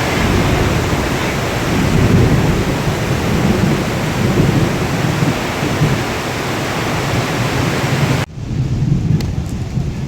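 Heavy rain and gusting wind with thunder rumbling low underneath, in surges. About eight seconds in it cuts off abruptly to a quieter stretch of rain.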